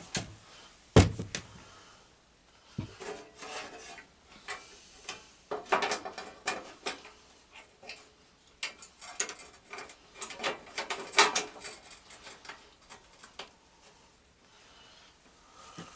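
Irregular clinks, knocks and rattles of hand tools and metal parts being handled during mechanical work, with one sharp knock about a second in and busier clattering in the middle.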